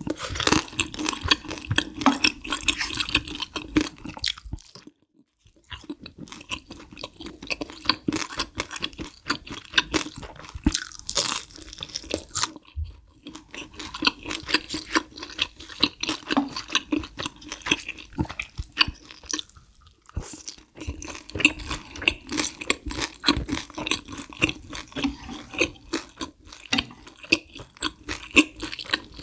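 Close-miked chewing and crunching of crispy battered sweet and sour pork (guo bao rou): a dense run of crackling bites and chews, broken by a brief silent gap about five seconds in and another near twelve and a half seconds.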